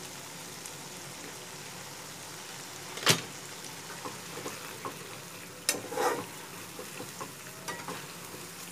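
Mustard-and-poppy-seed paste sizzling steadily in hot oil in a kadai while it is fried off to lose its raw smell. A metal spatula stirs it: one sharp knock against the pan about three seconds in, a cluster of scrapes around six seconds, and lighter taps in between.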